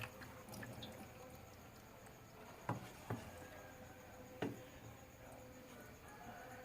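Meltwater from thawing freezer frost dripping: three separate drops near the middle, over a faint steady hum.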